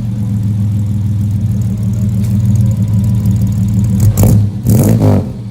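Holden grey motor six-cylinder running through split extractors and a twin 2-inch unbalanced exhaust, with an uneven, unequal-length exhaust note. It idles steadily, then is blipped twice near the end.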